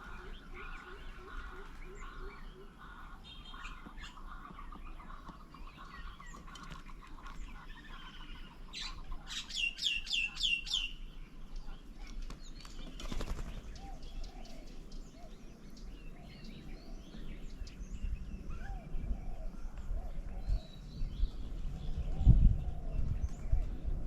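Several birds calling: a fast run of low notes and a steady run of higher notes in the first few seconds, a quick series of five or six high falling whistles about ten seconds in, and scattered chirps after. A low rumble comes up near the end.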